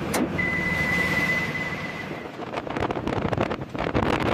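A steady rumbling machine-like noise. A single high steady beep lasts about two seconds, and after it comes a run of rapid clicks and clatter.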